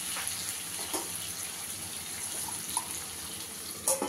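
Onions and potatoes sizzling steadily in mustard oil in a kadhai. Just before the end, a steel lid clinks down onto the pan.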